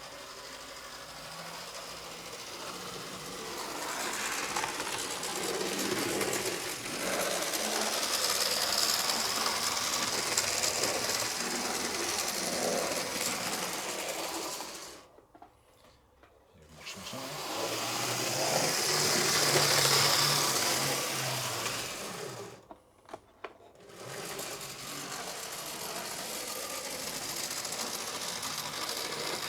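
Old Lima HO-scale model of an NS class 1200 locomotive running on the track: a small electric motor whirring with wheel and gear noise, getting louder and quieter with speed. It stops twice, as it is run back and forth.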